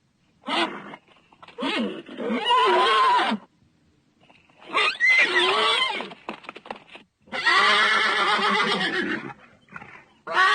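Horse neighing repeatedly: a short call, then three long whinnies of about two seconds each with wavering pitch, and short calls near the end.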